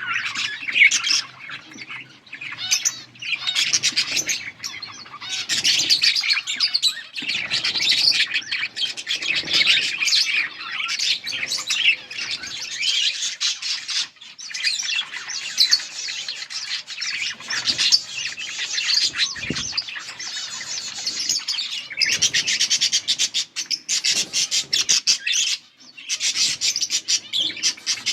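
Budgerigars chirping and chattering, a dense, continuous warble of rapid high-pitched notes with only brief pauses.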